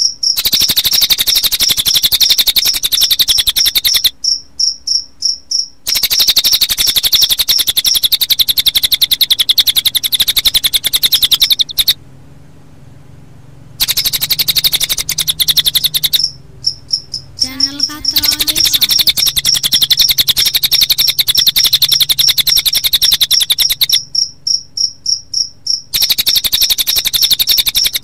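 A recorded mix of cililin bird song and cricket chirping. A fast, high-pitched trill runs in long stretches, broken by short slower pulsed phrases and one brief quiet pause.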